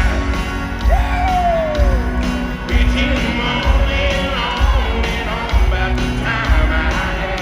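Live country band playing with singing, a steady drum beat and crowd yells, heard from among a concert audience.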